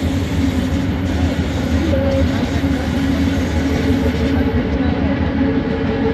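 Bombardier Innovia ART 200 train running, heard from inside the car: the steady hum of its linear induction motors over the rumble of the running gear. A faint high whine drops out about four seconds in, and a higher motor tone comes in just after.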